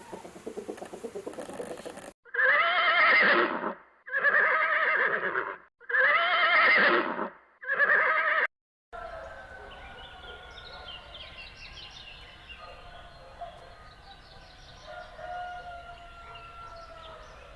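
A horse whinnying four times in a row, each call about a second and a half long, loud, with a shaking, wavering pitch. Fainter, thinner calls follow after a sudden cut.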